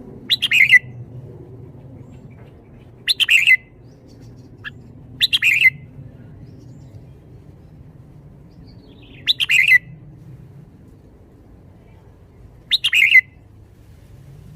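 Red-whiskered bulbul singing five short, loud song phrases of about half a second each, spaced a few seconds apart, over a faint low background hum.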